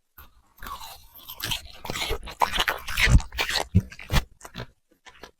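A puppy chewing crunchy food: a quick run of crisp crunches that thins out to a few scattered bites after about four seconds.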